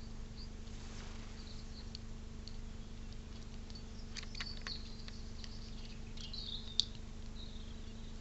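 Faint birds chirping and twittering at a backyard bird feeder, with a few sharp clicks and taps, busiest past the middle, over a steady low hum.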